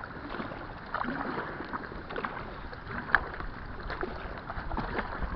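Kayak paddle strokes splashing in the water at an irregular pace, over a steady rush of wind on the microphone.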